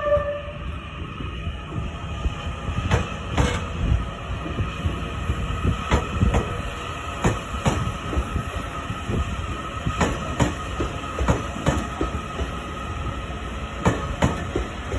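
Cars of the Train Suite Shiki-shima sleeper train rolling slowly past as it departs. There is a low rumble, and the wheels clack over rail joints in quick pairs every second or two, with a faint steady whine underneath.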